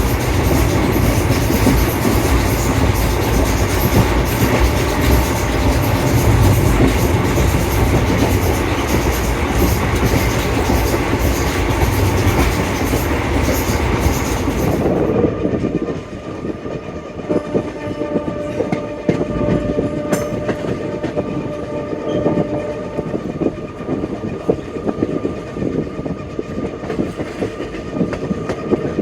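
Passenger train running along the track, with wheel and rail noise. The loud, dense rushing drops suddenly about halfway through to quieter running with scattered clicks and a faint steady tone.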